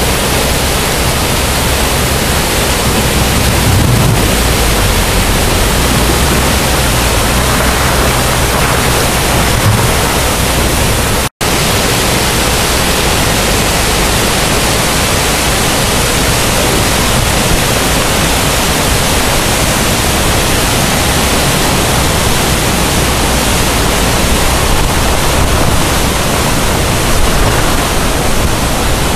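Sauk River floodwater rushing high and fast: a loud, steady rush of water, broken by a brief silent cut about eleven seconds in.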